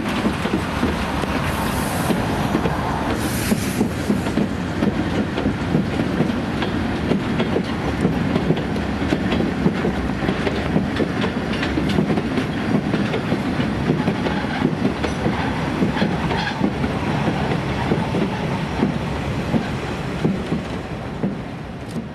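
Metre-gauge train of wagons and coaches rolling along the track, wheels clattering over the rail joints with touches of wheel squeal.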